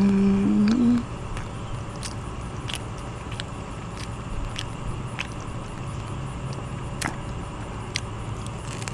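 Eating with full dentures: scattered sharp clicks from chewing, one every half second or so, over a steady low hum. A short held hum of the voice, like a drawn-out 'mm', sounds in the first second.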